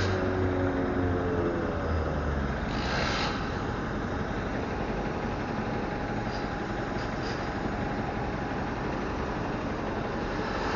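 A large vehicle's engine running and fading away over the first two seconds, with a short hiss about three seconds in, then steady street noise.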